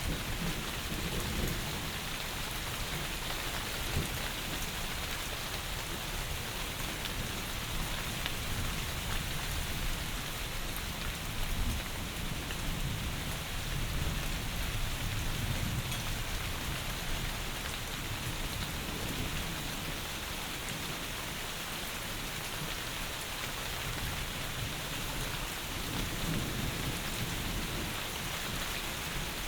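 Heavy rain falling in a steady hiss, with low thunder rumbles swelling and fading several times.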